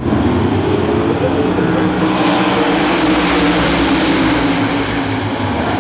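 Sprint car V8 engines at race speed, a continuous loud howl of several cars at once that swells from about two to five seconds in as the cars pass.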